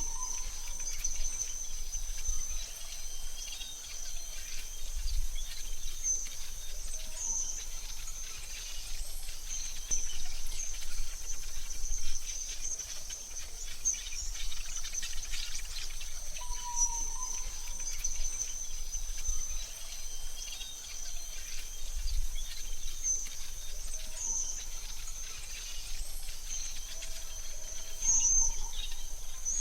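Forest ambience: a steady high-pitched insect drone throughout, with a few short bird calls, one at the start, one about halfway through and one near the end.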